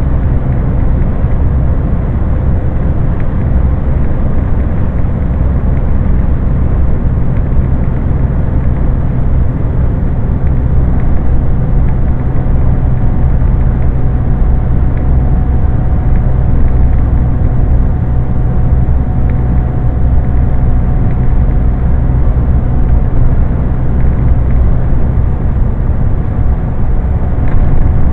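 Scania lorry's diesel engine running steadily at cruise with road and tyre noise, picked up by a small camera on the truck.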